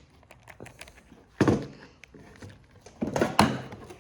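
Two sharp knocks, one about a second and a half in and a louder one near the end, with small clicks between: hand tools and parts being handled and set down while a driver bit is swapped.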